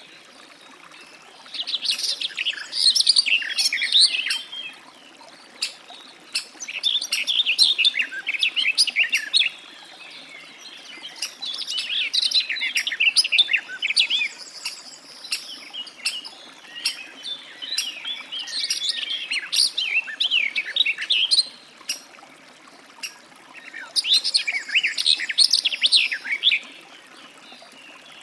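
Garden warbler singing: long, rapid, jumbled warbling phrases of a few seconds each, separated by pauses of a few seconds, with short single notes in the gaps.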